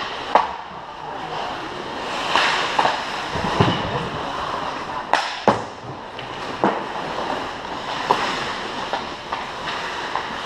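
Ice hockey play: skates scraping on the ice, with sharp cracks of sticks and puck against the boards several times, over a steady background noise.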